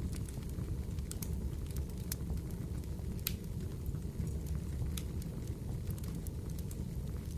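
Fireplace crackling: a steady low rumble of burning with frequent sharp pops and snaps scattered irregularly throughout.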